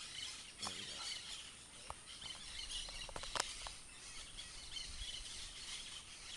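Many birds chattering and calling at once, a dense, steady high twittering, with a brief sharp sound about three and a half seconds in.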